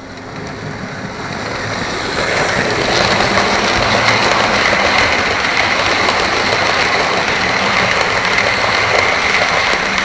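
Model train running along the track, its electric motor and wheels on the rails growing louder over the first two seconds, then running steadily.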